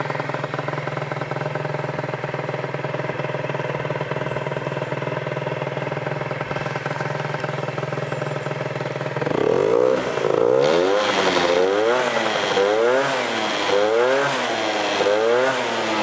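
Gilera DNA50 moped's 50cc two-stroke single idling steadily, then, about nine seconds in, revved repeatedly with the throttle, rising and falling in pitch about once a second.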